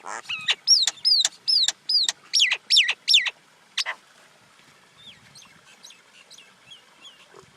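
Common myna calling: a quick run of about eight loud notes, each rising briefly and then falling in pitch, over the first three seconds or so, followed by fainter, scattered calls.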